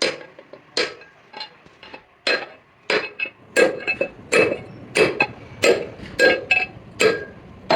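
Hand hammer striking steel on a truck's rear axle hub assembly, about fifteen blows that come faster after the first few seconds, each with a short metallic ring: knocking at a part that will not come out.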